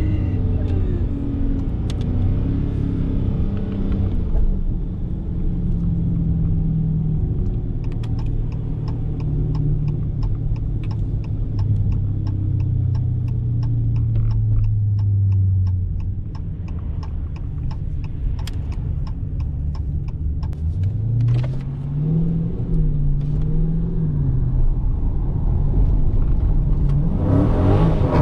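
2018 Dodge Challenger Scat Pack's 392 HEMI V8 driving, heard from inside the car: the engine note eases down and holds steady, drops away just past halfway, rises briefly a few seconds later and picks up again near the end. A rapid light ticking runs for several seconds in the middle.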